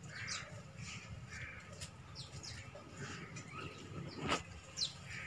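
Small birds chirping, a scatter of short, quick, falling high notes, over a low steady hum, with one brief sharp sound about four seconds in.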